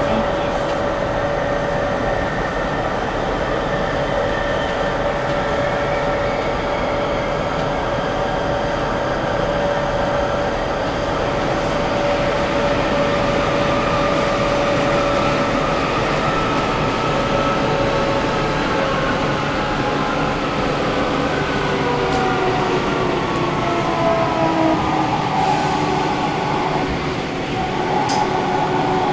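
Sendai City Subway 1000N series train running underground, heard from inside the car with the air conditioning on. The wheels and traction motors make a steady rumble, and the motor tones shift in pitch about two-thirds of the way in as the speed changes.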